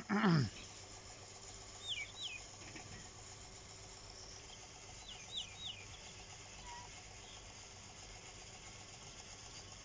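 Birds calling over open farmland: a pair of short, high chirps about two seconds in and three more about five seconds in, over a faint steady hum. At the very start, a brief loud sound slides steeply down in pitch.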